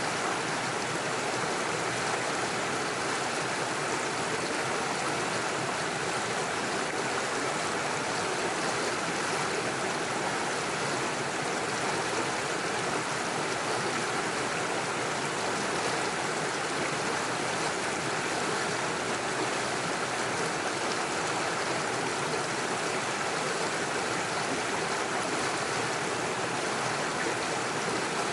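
Small mountain stream running over stones and little waterfalls, a steady rushing and gurgling of water.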